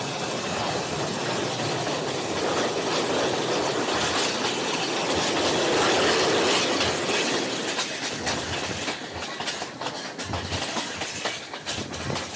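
Passenger train running along the line, heard from on board: a steady rush of wheels on rail that swells toward the middle. In the last few seconds it breaks into quick irregular clicks and knocks as the wheels clatter over the track.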